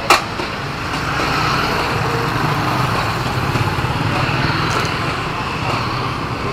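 Steady engine rumble and traffic noise, with a sharp click just at the start.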